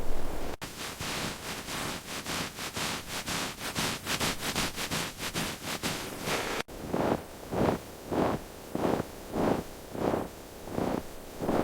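Snow being worked in rhythmic strokes, in two edited takes: first a fast run of hissy scraping strokes, about four or five a second; then, after a cut, slower, fuller crunches about every half second.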